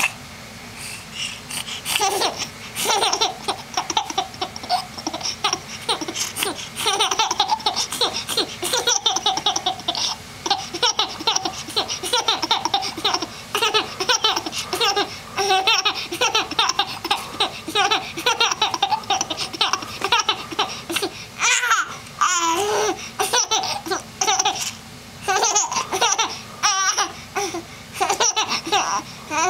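An 8-month-old baby girl laughing in long runs of quick, breathy pulses, with short pauses between them and a high gliding squeal about two-thirds of the way through.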